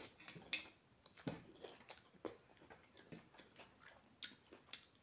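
A person chewing a mouthful of rice, with faint, irregular wet smacks and clicks of the mouth.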